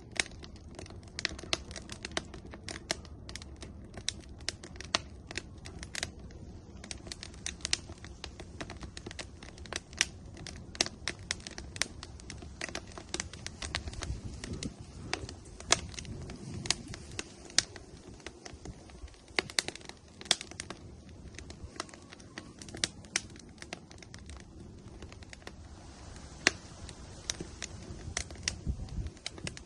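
Firewood burning in an outdoor grill, crackling with many irregular sharp pops over a low steady rumble.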